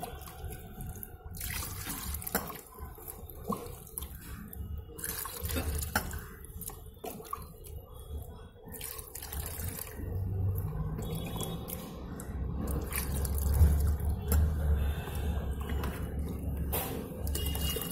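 Water being poured and splashing into a refrigerator's drip tray, unevenly, with occasional knocks.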